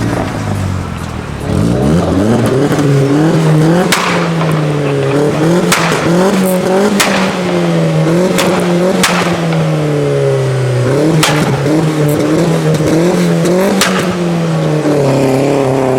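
Car engine revved hard and held high, starting about a second and a half in, its pitch swinging up and down, with about eight sharp cracks along the way.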